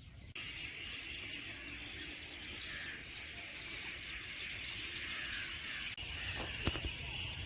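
Outdoor wildlife ambience: a steady, high-pitched hissing chorus with a low rumble beneath. It changes abruptly about six seconds in, when a thin, high steady whine joins it.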